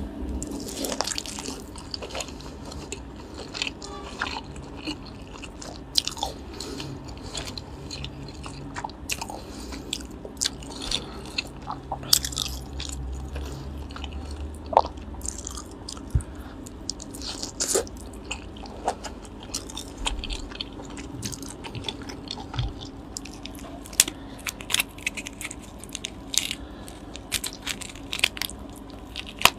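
Close-miked chewing and biting of grilled lobster tail meat, with many sharp wet clicks of the mouth. Near the end come more clicks, as meat is pulled from the lobster shell by hand.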